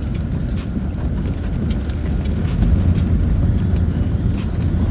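Land Rover Discovery 4 driving downhill on a rough off-road track, heard from inside the cabin: a steady low rumble with occasional light knocks and clicks.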